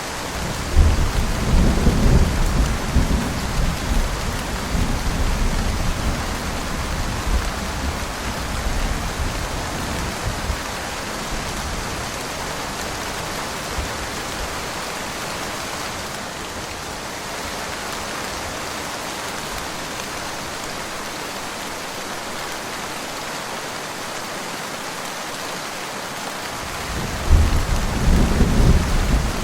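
Steady rain, with a long roll of thunder that starts about a second in and rumbles away over some ten seconds; a second thunder rumble begins near the end.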